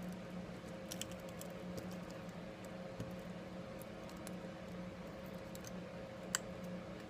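Small, scattered clicks and ticks of repair tools picking at a smartphone's cracked front glass, with one sharper click about six seconds in, over a steady low hum.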